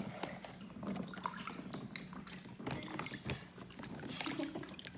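Water trickling and splashing in a plastic Aquaplay toy water playset as a toy boat floats along, with many small plastic ticks and taps.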